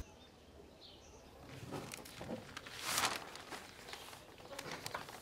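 Faint chirping of small birds, with a soft rustle about three seconds in.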